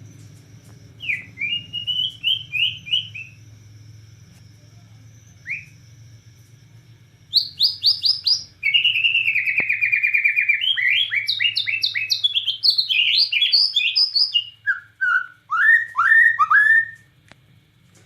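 White-rumped shama (Bornean murai batu) singing. A short phrase of quick rising whistles comes first, then a single note. About seven seconds in it breaks into a loud, fast run of varied whistles, a rapid buzzy trill and swooping notes that stops about a second before the end. A faint low hum runs underneath.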